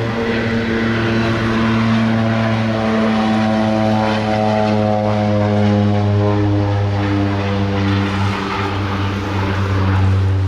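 De Havilland DHC-6 Twin Otter floatplane's twin Pratt & Whitney PT6A turboprops running at takeoff power: a loud, steady propeller hum made of several stacked tones that sink slightly in pitch over several seconds.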